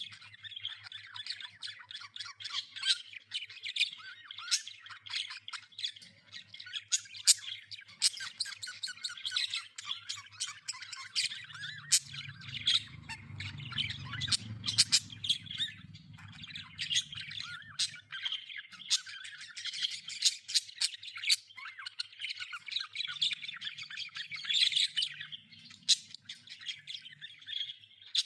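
A flock of budgerigars chattering and squawking continuously, dense warbling chatter broken by sharp, high chirps.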